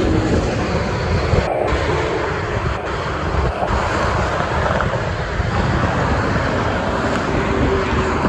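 Steady roar of expressway traffic, with tyre and engine noise from passing trucks and cars, and wind buffeting the microphone.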